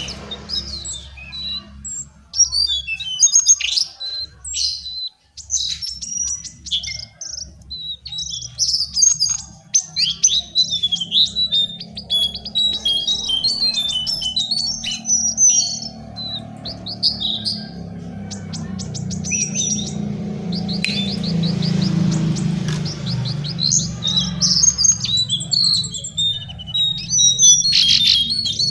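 Lesser shortwing (Brachypteryx leucophrys) singing: rapid, high, varied twittering phrases one after another, over a low steady hum that swells for a few seconds about two-thirds of the way through.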